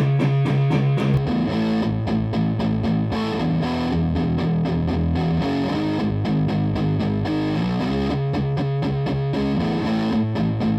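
Electric guitar through the distortion channel of a Marshall Valvestate 80 amp, playing a fast rhythmic riff of distorted picked notes and chords.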